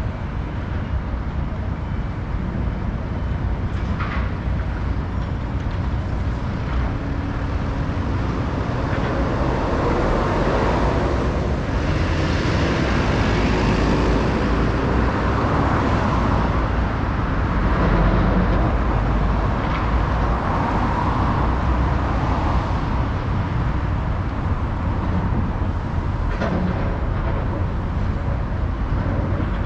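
Tokyo street traffic heard from a moving bicycle: a steady low rumble with motor vehicles passing, one swelling up and fading away about halfway through, and a few short clicks.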